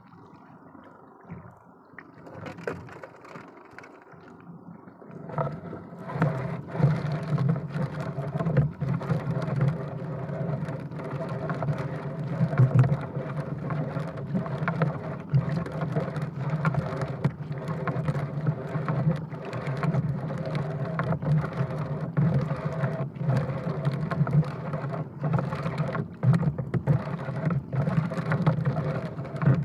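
Engine of a small motorized fishing boat, which comes up about five seconds in and then runs steadily at a constant pitch.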